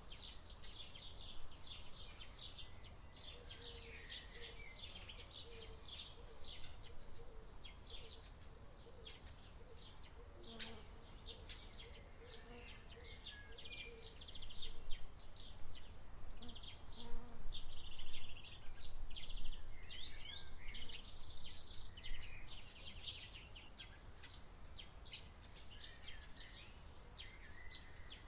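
Many small birds chirping and twittering over a low steady rumble; the chirping gets louder and busier about halfway through for several seconds.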